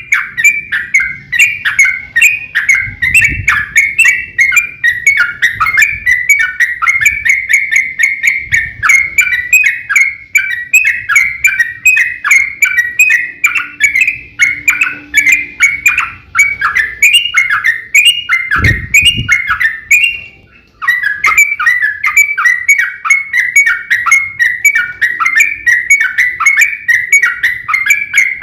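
Yellow-vented bulbul (trucukan) singing in long, rapid chattering runs: short chirping notes, several a second, going on without pause apart from a brief break about twenty seconds in.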